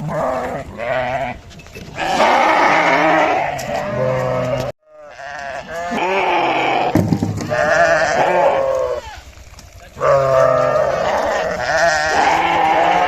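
Several sheep bleating in long, quavering calls that overlap one another almost without pause, broken once by a brief total cut a little before the fifth second.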